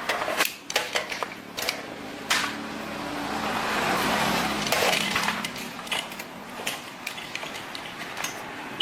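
Irregular clicks, knocks and clatter of tools and parts being handled in a workshop, with a noisy background.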